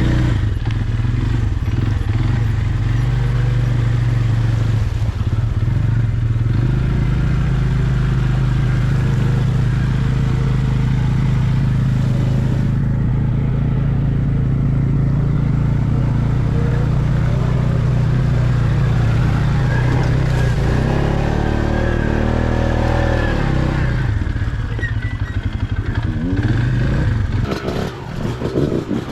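Off-road vehicle engine running steadily under load on a trail. Near the end its pitch rises and falls as the throttle changes.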